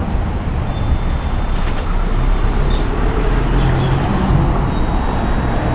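Road traffic on a wet street in rain: a steady hiss with a low rumble and a faint engine hum in the middle.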